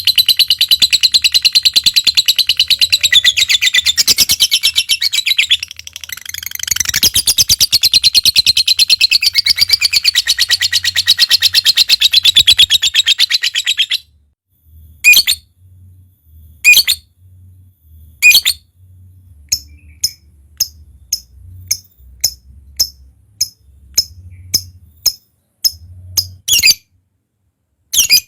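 Lovebird giving a long, continuous, rapid rattling chatter (the 'ngekek' song), with a short dip about five seconds in; it stops abruptly about halfway through. Then come single sharp calls a second or two apart and a run of quick chirps, about two a second.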